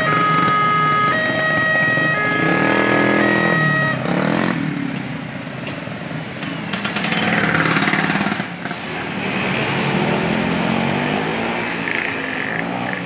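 Railway level-crossing warning alarm sounding in electronic tones that step between pitches, cutting off about four seconds in. A train then runs through the crossing with a steady rumble of engine and wheels.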